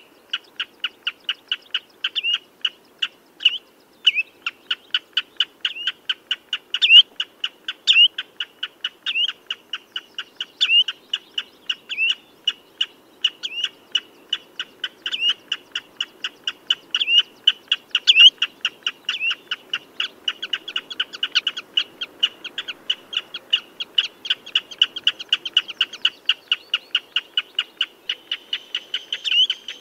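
Common redshank calling: a fast, unbroken series of short, sharp, piping notes, about four a second, with a few louder ones scattered through.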